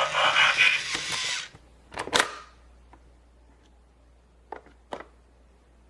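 A short buzzing, stuttering mechanical whir for about a second and a half, then two sharp clicks and a few fainter clicks later: plastic Play-Doh playset pieces being handled.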